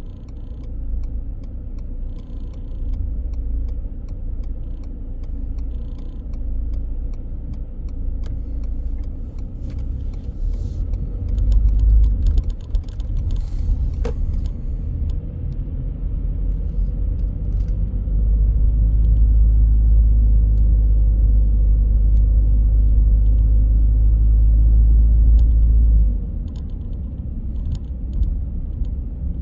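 Car driving on city streets: a steady low rumble of tyres and engine, growing louder for about eight seconds past the middle, then dropping back. Light clicks and rattles throughout, and a brief falling squeak about halfway through.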